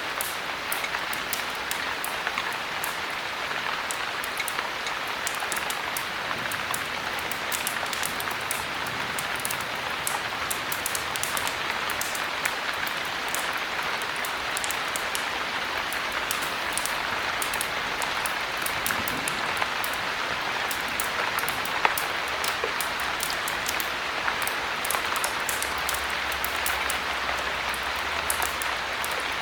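Steady heavy rain: a dense, even hiss with many sharp little ticks scattered through it, and one louder pop about three-quarters of the way through.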